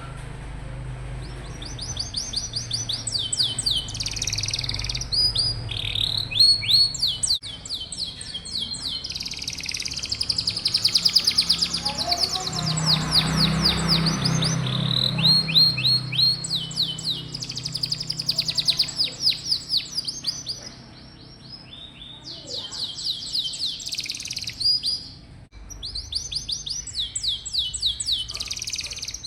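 Domestic canary singing a long song of rapid rolling trills, one run of quickly repeated notes following another, with brief lulls about two-thirds of the way through.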